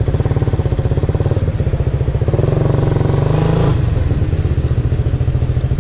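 Suzuki Raider R150 Fi motorcycle's single-cylinder engine running with a steady pulsing beat. Its revs climb from about two seconds in and drop back sharply shortly after the middle.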